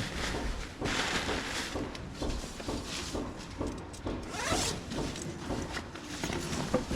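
A zipper being pulled, with its biggest pulls about a second in and about four and a half seconds in, amid rustling and handling of camping gear.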